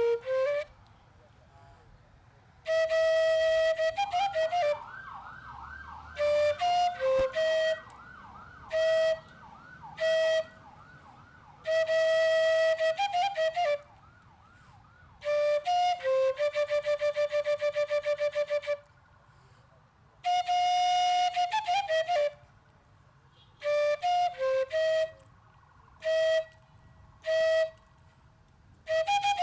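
Atenteben, a Ghanaian bamboo flute, played solo: long, clear held notes in short phrases with quiet gaps between them. It is the dirge tune played in Ghana when someone dies. A faint, rapidly wavering tone sounds behind the flute from about four to seven seconds in.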